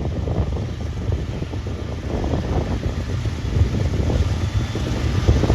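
Low rumble of an approaching CSX freight train, with wind buffeting the microphone.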